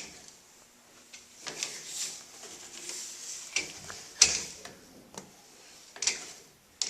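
Sewer inspection camera's push cable and reel being worked, giving irregular mechanical clicks, rattles and short scraping hisses, with one sharp click about four seconds in.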